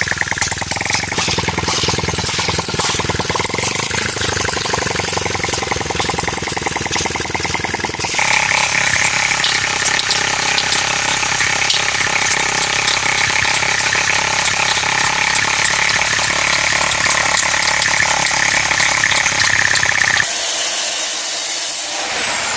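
Small engine of a petrol-cum-compressed-air dual-mode engine running steadily with a fast rattle. The sound changes abruptly about 8 seconds in and again near the end.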